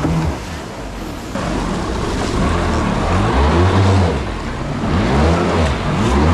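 Stand-up jet ski engine revving up and down several times in quick swells, over a hiss of water. The engine is struggling to stay running.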